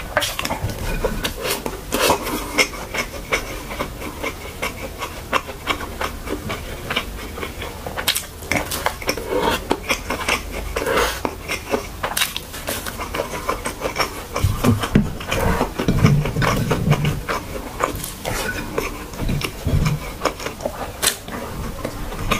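Close-miked chewing and lip-smacking of a mouthful of beetroot fried rice and fried spam, made up of many sharp wet mouth clicks, with softer low chewing and swallowing sounds in the second half.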